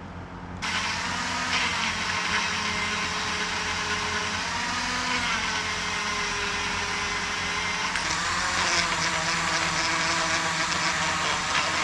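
Cordless Dremel rotary tool spinning a mild abrasive polishing bit against the welder's electrical contacts, a steady buzzing grind that starts about half a second in. It gets brighter and scratchier about eight seconds in.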